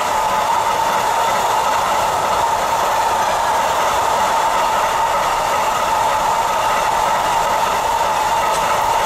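Intermodal freight train rolling past, with steady wheel-on-rail noise from the wagons.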